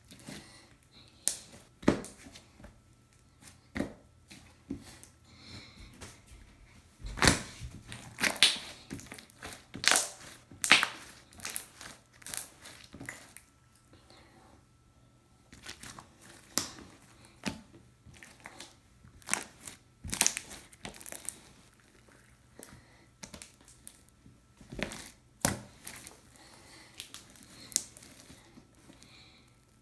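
Hands squishing and stretching a stretchy slime, giving irregular sticky clicks and pops, with the loudest, densest run of pops from about seven to thirteen seconds in.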